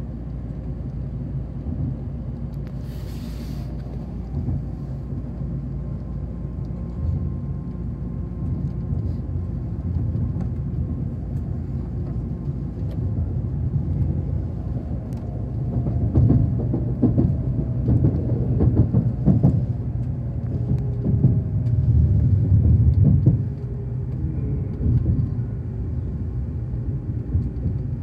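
Nozomi shinkansen heard from inside the carriage: a steady low running rumble. In the second half a falling whine sets in as the train slows on its approach to the station. Between about 16 and 23 seconds there is a louder stretch of knocks and clatter from the running gear.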